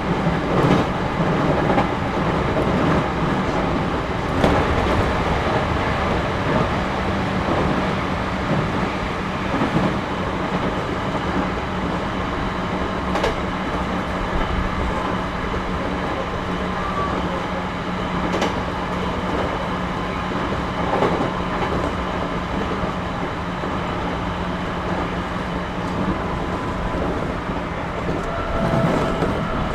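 Cabin running sound of a JR series 211-5000 electric multiple unit under way: a steady rumble of wheels and motors with a low hum, broken by a few sharp clicks of wheels over rail joints.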